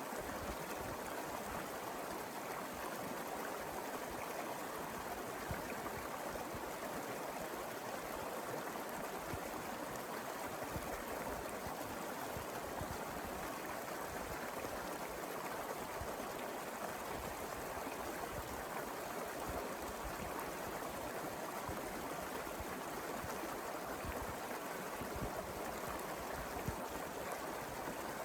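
A small mountain river flowing over rocks: a steady rush with gurgling and trickling, unchanging throughout.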